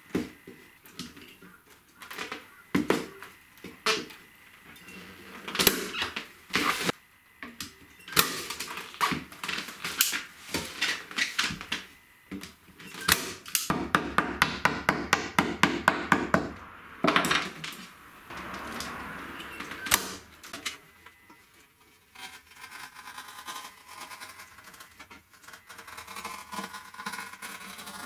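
Handwork sounds from fitting new grille cloth on a guitar amp: scattered sharp clicks and knocks, with a fast run of even ticks about halfway through and softer rustling near the end.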